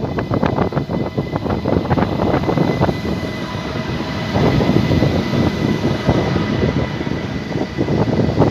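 A train moving past, a loud dense rumble with a faint steady high whine above it.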